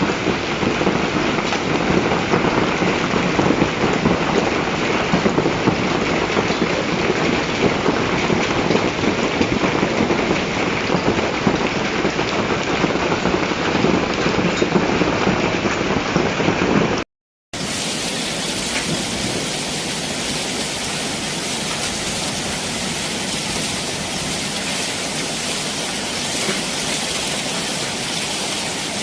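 Heavy hailstorm: a dense clatter of hailstones pelting down on hard surfaces, mixed with heavy rain. It cuts out briefly about seventeen seconds in and gives way to a smoother, steady hiss of hail and rain.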